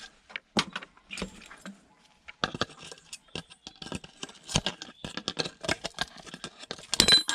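Rapid, irregular clicks, clacks and knocks of a hard plastic router case and hand tools being handled as the router is taken apart. The densest, loudest clatter comes near the end.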